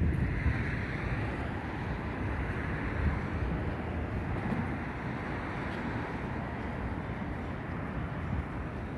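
City street traffic going by, with wind rumbling on the microphone.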